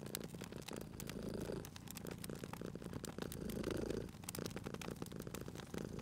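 Domestic cat purring steadily, swelling and easing about once every two and a half seconds with its breathing, over the irregular crackles and pops of a wood fire.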